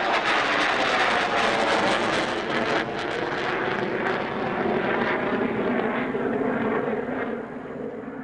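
Jet fighter's engines roaring loudly with a ragged crackle, the sound settling lower and fading away near the end as the jet moves off.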